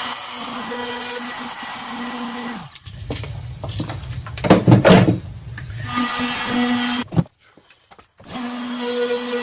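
A small handheld power tool's motor running with a steady hum while hinge recesses are cut into a door edge. It works in several passes, cuts out for about a second two-thirds of the way through, then starts again.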